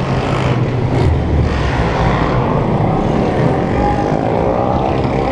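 Many small motorcycle engines running at once, a steady dense rumble of a large group of bikes riding together.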